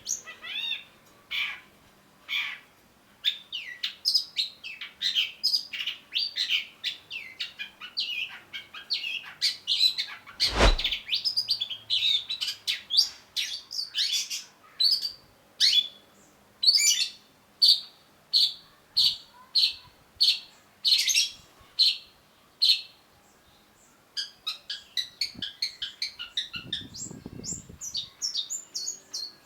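Long-tailed shrike singing a rapid, varied string of sharp chirps and whistles, with a brief pause followed by a quicker run of notes near the end. A single loud thump sounds about ten seconds in.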